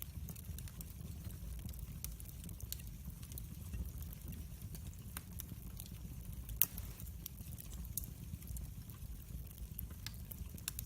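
Wood fire in a fireplace crackling: a steady low rumble from the flames under many small, irregular pops and snaps, with one louder pop about six and a half seconds in.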